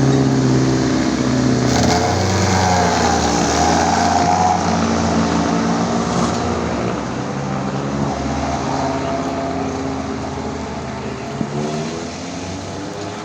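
Classic race car engines running, their revs rising and falling, gradually fading toward the end.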